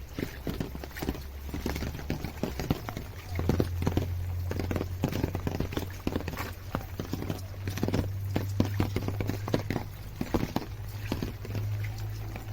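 Horse hooves clip-clopping on a hard road in a series of irregular knocks, over a steady low hum.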